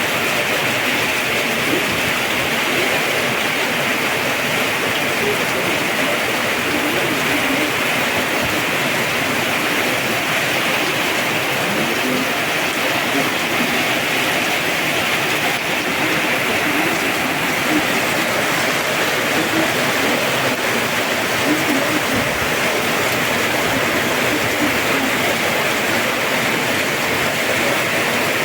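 Heavy rain pouring down steadily in a strong thunderstorm, an even, unbroken hiss of falling water.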